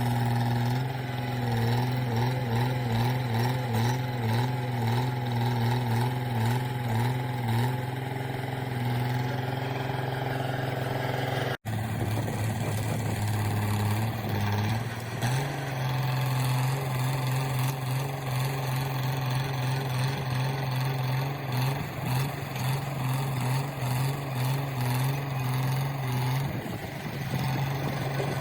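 A heavy vehicle's engine running steadily, its pitch wavering up and down in the first part as the load changes. There is a momentary dropout partway through, after which the engine carries on.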